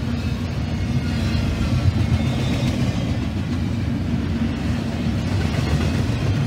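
Double-stack intermodal well cars of a freight train rolling past at speed: a steady, loud rumble of steel wheels on the rails.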